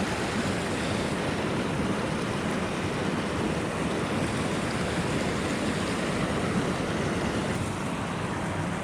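Creek water rushing steadily over rocks, a continuous even wash with no breaks.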